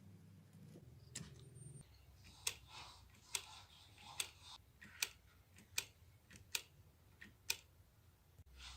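A series of seven sharp clicks, a little more than one a second, with faint rustling between them; a low hum stops about two seconds in.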